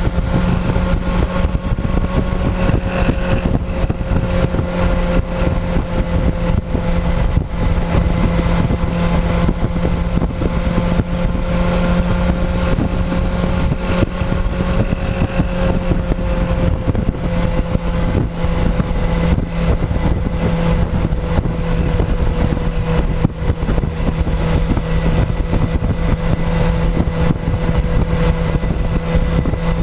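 Motorcycle engine running at a steady cruising speed, heard close up from a GoPro on the fuel tank, with a steady rushing noise over it. The engine's pitch holds almost level, sinking slightly a little past the middle.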